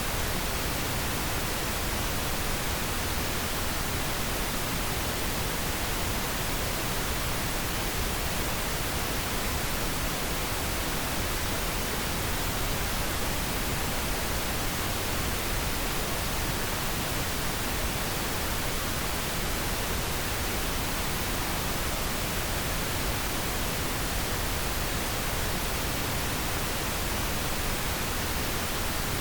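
Pink noise: a steady, even hiss spread from deep to high pitches, unchanging throughout.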